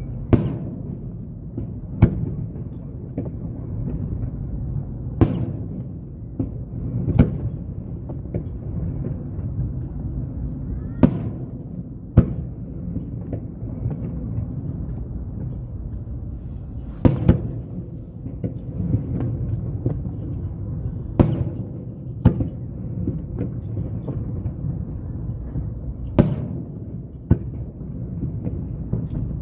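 Aerial firework shells bursting, about a dozen sharp booms at irregular intervals, some in quick pairs, each trailing off briefly. A steady low rumble of background noise runs underneath.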